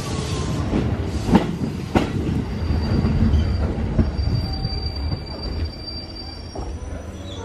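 JR East 205 series 3100 electric train running slowly past at close range as it pulls into its terminal station. It rumbles steadily and clicks as the wheels cross rail joints, with a thin high wheel squeal in the middle. The sound fades once the last car has gone by, about five seconds in.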